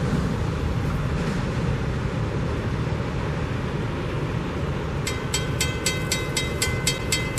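Florida East Coast freight train rumbling steadily past a grade crossing. About five seconds in, the crossing bell rings clearly, about four strikes a second, as the train clears and the gates begin to rise.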